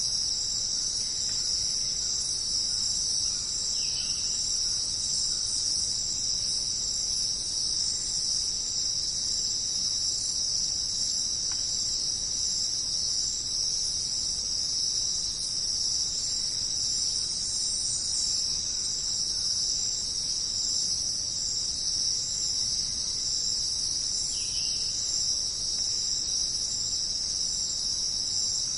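Dense, steady chorus of jungle insects chirring without a break, with a couple of faint short chirps, one about four seconds in and one near the end.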